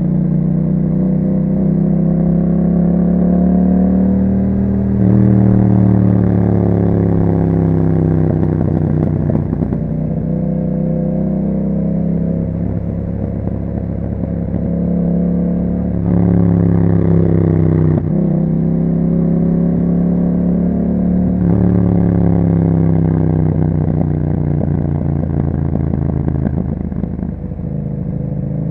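Yamaha MT-07 parallel-twin running through an aftermarket Akrapovic exhaust while being ridden. The revs climb and fall several times, with sudden jumps between, and a rapid crackle each time the revs drop.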